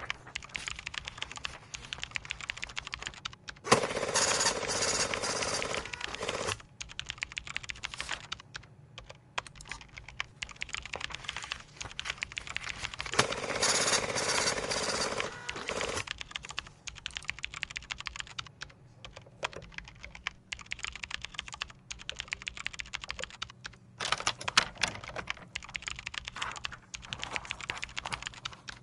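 Typing on a computer keyboard: a continuous patter of keystrokes, with three louder, denser stretches of clatter, about four, thirteen and twenty-four seconds in.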